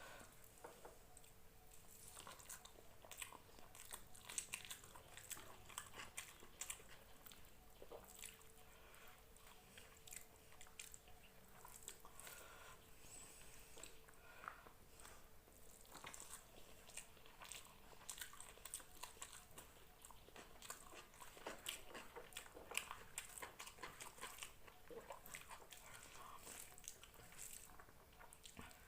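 Faint mouth sounds of a person eating rice and chicken curry: chewing with many small, irregular wet clicks and smacks.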